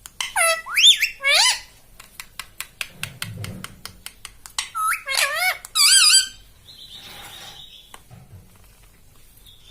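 Ring-necked parakeet giving loud squawking calls that waver up and down in pitch, in two bouts about five seconds apart, with a fast run of clicks between them. A short steady high tone follows the second bout, and then it falls quiet.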